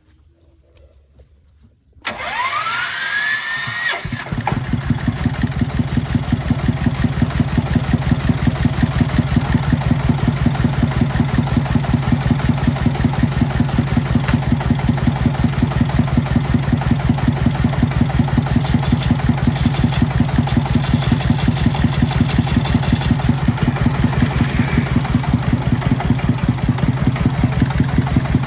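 Tractor engine started: about two seconds in it cranks with a rising whine, then catches at around four seconds and settles into a steady idle with an even, rapid pulsing beat, running again after the gearbox repair.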